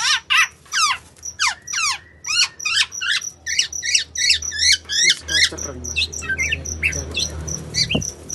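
Black-naped oriole calling in a rapid, harsh series of downward-slurred notes, about three to four a second, thinning out after about five seconds, with a string of short high pips alongside; the bird is in breeding condition.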